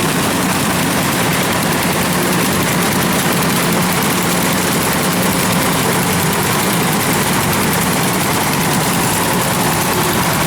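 Kubota rice combine harvester's diesel engine running steadily under load, a constant heavy drone with no change in speed.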